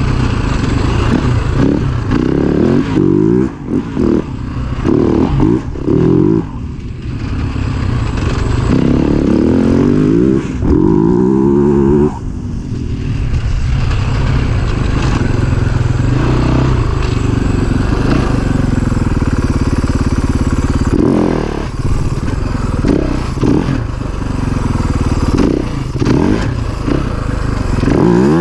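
Husaberg FE 450 dirt bike's single-cylinder four-stroke engine under way, its revs repeatedly rising and falling as the throttle is worked. There are short bursts of revving early on and near the end, one longer climb around the middle, and steadier running between them.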